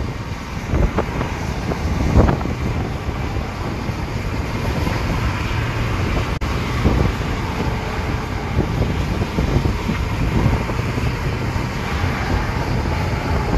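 Steady wind noise on the microphone over the low rumble of a moving vehicle, swelling about two seconds in, with a sharp click about six and a half seconds in.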